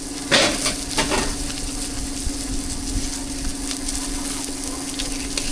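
Cake sizzling on a hot street-food griddle, with a few sharp scrapes or knocks of a utensil in the first second or so, then steady frying.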